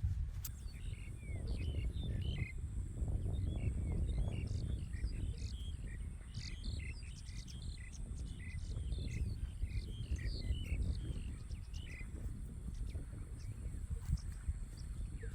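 Birds calling in quick series of short chirps, which stop about twelve seconds in, over a steady high-pitched insect drone and a low rumble.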